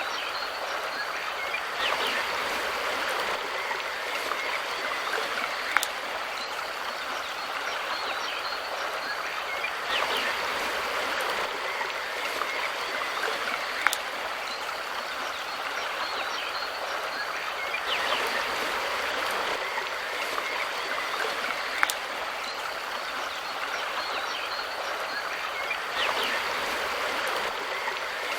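River stream flowing steadily, with a swell in the rushing about every eight seconds and a sharp tick at the same eight-second spacing.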